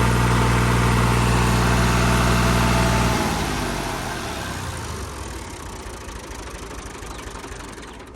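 Fiat 480 tractor's three-cylinder diesel engine running at a steady speed; about three seconds in, its steady note cuts off and a rough rumble fades away.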